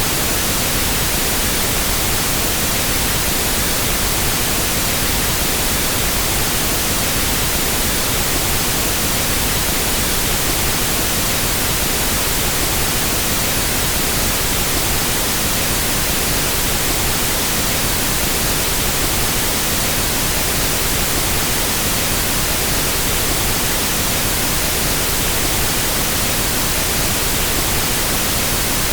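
Pink noise test signal for equalizing sound equipment: a steady, even hiss that spreads across all pitches and never changes in level.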